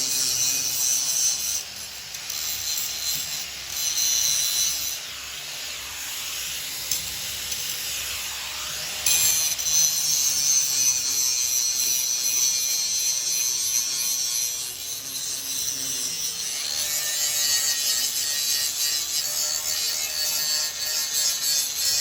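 Power tool cutting through the rusted sheet-steel deck of an old rotary cutter, a continuous harsh rasping that shifts in pitch and strength a few times as the cut goes on.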